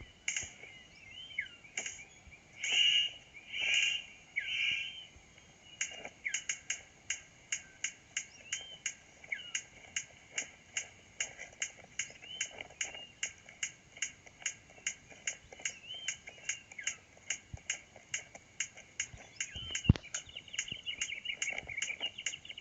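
Male superb bird of paradise displaying to a female: a few harsh calls in the first few seconds, then a steady run of sharp clicks, about two or three a second, with thin chirping calls between them.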